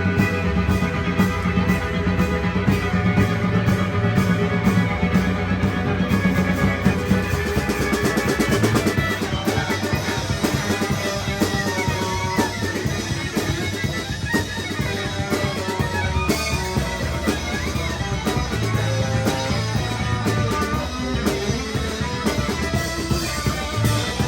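Live rock band playing an instrumental passage: electric guitars, bass and drum kit with a steady beat.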